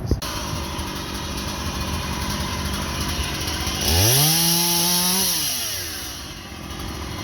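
Chainsaw idling, then revved once about four seconds in: the pitch climbs fast, holds for about a second with a loud hiss, then drops back to idle.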